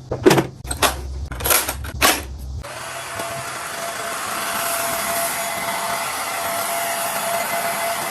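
A few sharp knocks and clatters, then about two and a half seconds in a small motor-driven appliance switches on and runs steadily with an airy whoosh and a faint steady hum.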